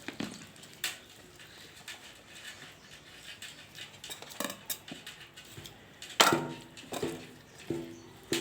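Scattered knocks and clinks of a knife and dishes while a slaughtered duck is gutted by hand, with one sharp, louder knock about six seconds in. A few short pitched calls follow near the end.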